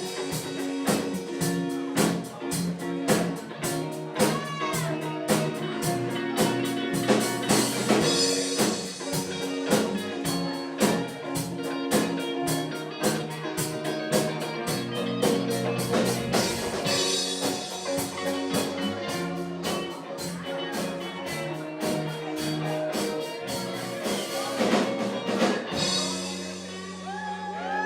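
Live rock band playing an instrumental passage on drum kit and guitars with a steady beat; about two seconds before the end the drums stop, leaving a held chord ringing.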